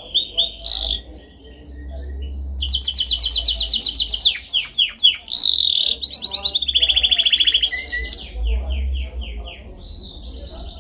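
Canary singing a long, continuous song of fast trills and rolls, with a run of quick downward-sliding notes in the middle. A steady low hum lies underneath.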